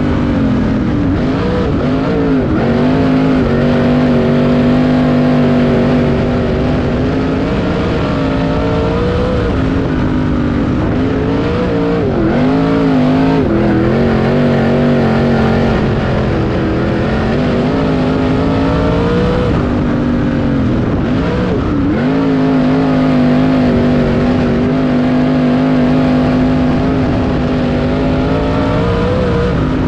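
Dirt-track race car's engine running laps at full throttle, dropping in pitch as the throttle comes off for each corner and rising again on the straights, about every eight seconds.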